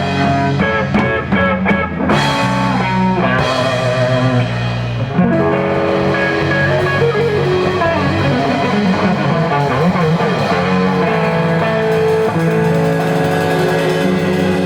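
Blues band playing an instrumental passage: electric guitar lead with held, bent notes and vibrato over bass guitar.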